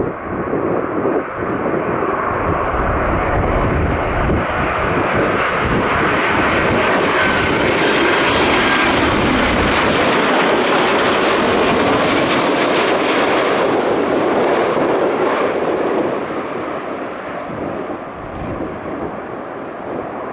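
Fixed-wing aircraft passing close by, its engine noise swelling to a peak with a faint high whine about halfway through, then fading away. Wind buffets the microphone at the start.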